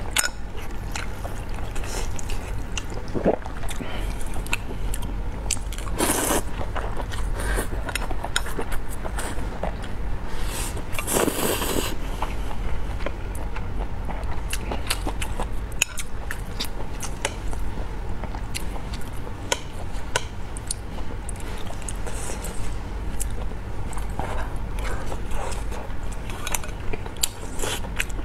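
Close-miked eating: biting and chewing braised pork belly with rice, with frequent small clicks and scrapes of chopsticks against a glass bowl. Two longer rushing bursts come about six and eleven seconds in, over a steady low hum.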